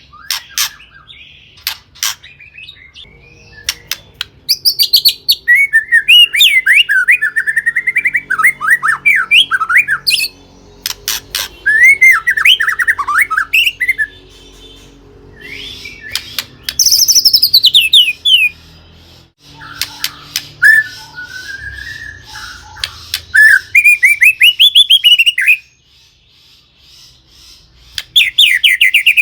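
White-rumped shama (murai batu) singing in bursts of rapid, varied whistles, trills and sharp clicks, with short pauses between phrases.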